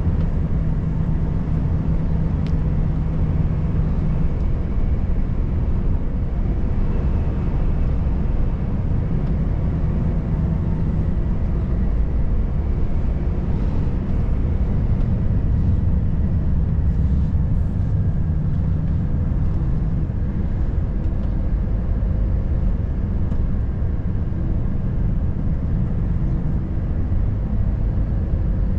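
Volvo FH540 truck's 13-litre straight-six diesel running under way, with road and tyre noise, as a steady low drone that holds level throughout.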